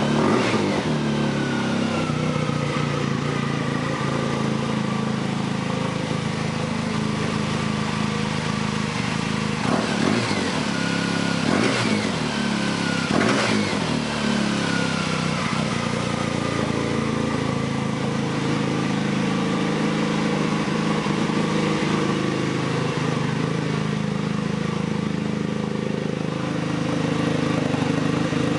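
2007 Polaris FST snowmobile's four-stroke turbo twin running through a straight-pipe exhaust, idling steadily. The throttle is blipped once at the start and three times in quick succession about a third of the way in, and each time the revs fall back to idle.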